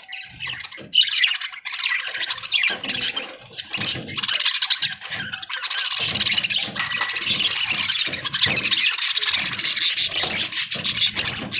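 A flock of budgerigars chattering and warbling together: a dense, scratchy, high-pitched chatter that thickens into a steady wall of sound about halfway through.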